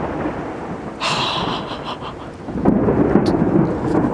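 Thunder rumbling from a thunderstorm, rolling on and swelling louder again about two and a half seconds in, over a steady hiss.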